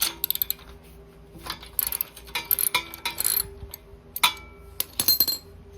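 Metal parts and tools clinking and tapping in a quick irregular series, a few strikes ringing briefly, over a faint steady hum.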